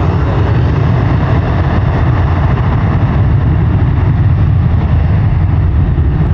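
Jet airliner engines running, a loud, steady, deep rumble.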